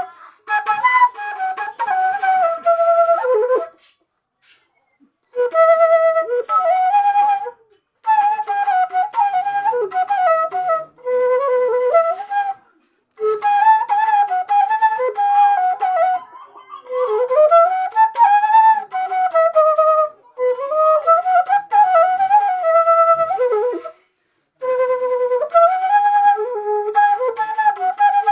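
Seruling, an Indonesian bamboo flute, playing a slow solo melody with bent, ornamented notes, in phrases of a few seconds broken by short pauses.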